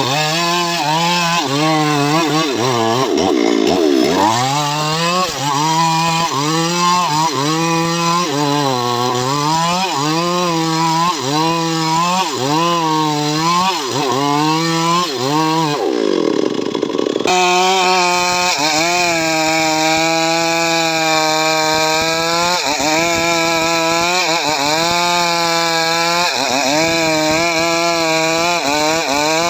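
Homemade 'srekel' chainsaw engine running hard while cutting sengon wood. Its pitch rises and falls about once a second as the chain bites and frees. Partway through, the sound changes abruptly to a steadier note with occasional brief drops.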